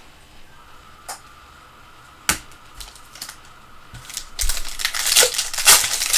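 Foil trading-card pack wrapper crinkling and tearing as a pack is handled and opened, after a few sharp clicks.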